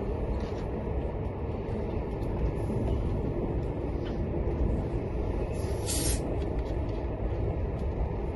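Express passenger train running at speed, heard from inside the carriage: a steady low rumble of wheels on rail, with a brief hiss about six seconds in.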